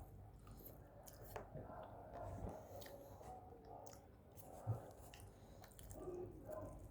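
Quiet close-up eating sounds: a person chewing and smacking on pizza and chicken wings, with scattered small wet clicks and a sharper knock about two-thirds of the way through.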